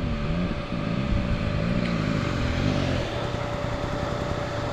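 Dirt bike engine running on the trail, its revs rising and falling, with wind noise and a thin steady whine alongside.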